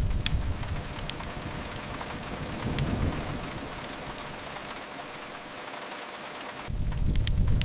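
Steady rain together with a crackling wood fire: an even hiss with sharp pops now and then, and a low rumble at the start and again from about seven seconds in.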